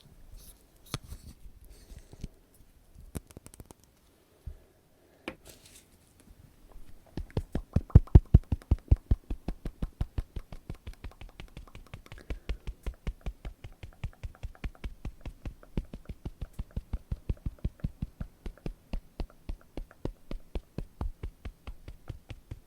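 Fingertip tapping, fast and even at about six taps a second, starting about seven seconds in after a few seconds of scattered soft clicks.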